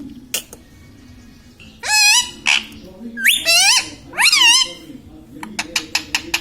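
Indian ringneck parrot calling: three high-pitched warbling calls that bend up and down in pitch. From about two-thirds of the way in, it makes a quick run of short clicking chirps.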